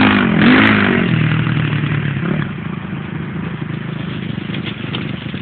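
Dirt bike engine revving up and down for about the first second, then settling to a steady, lower running note that fades slightly.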